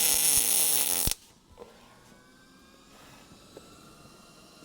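MIG welder arc laying a plug weld on sheet-metal floor pan: a steady loud crackling hiss that cuts off abruptly about a second in, leaving only a faint background hum.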